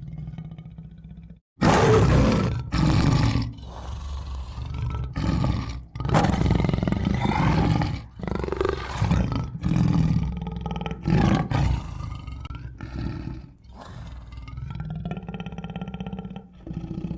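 Tiger roaring and growling: a quieter low growl, then a run of loud roars from about a second and a half in, with short pauses between calls, easing off near the end.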